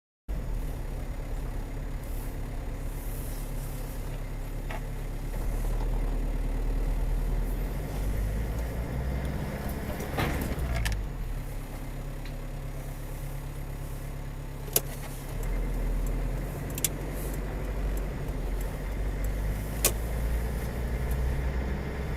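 Car driving, with steady engine and road rumble as picked up by a dash cam. About ten seconds in, a whoosh rises and falls, and three short sharp knocks come between about fifteen and twenty seconds in.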